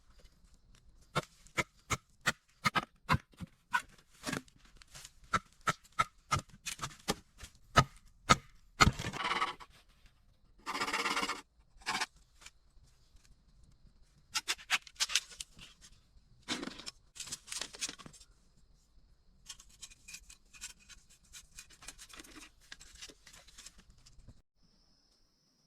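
Blade chopping and cutting bamboo by hand: a run of sharp strikes, about two to three a second, broken by short spells of tearing and rustling, then another cluster of strikes and fainter scraping.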